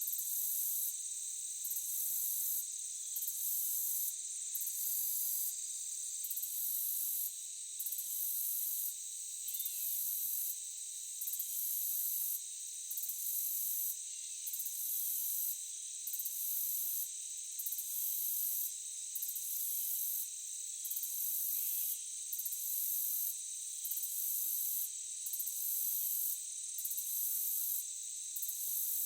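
Night insect chorus, crickets or similar, with a steady high trill and a second, very high-pitched chorus pulsing on and off in a regular rhythm about every second and a half.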